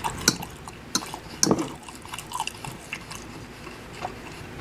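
Close-miked chewing and wet mouth sounds from someone eating fried rice and meatless nuggets, with a few sharp clicks of a metal fork against a ceramic bowl.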